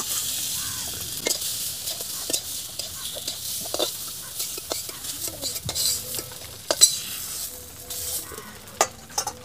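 Fried pointed gourd pieces sizzling in oil in a metal wok as a metal spatula scrapes them out into a steel bowl, with sharp clicks of the spatula against metal. The sizzle thins out near the end as the wok empties.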